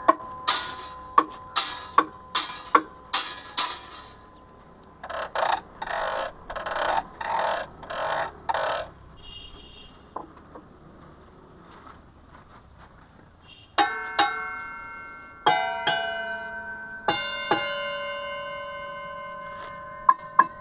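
Percussion instruments on an outdoor sound wall, struck one after another. First come about six sharp strikes, then a run of short rattling bursts, and after a short lull four bell-like strikes that ring on with several tones.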